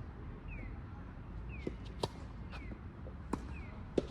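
Tennis balls being hit with rackets and bouncing on the court: several sharp pops, a few tenths of a second to most of a second apart. A faint short falling chirp repeats through it.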